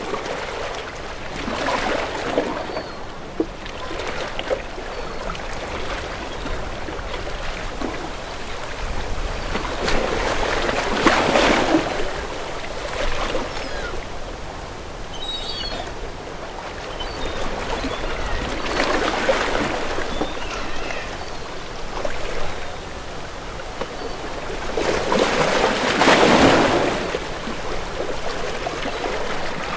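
Sea waves washing in slow swells, one about every eight seconds, over a steady wash of moving water.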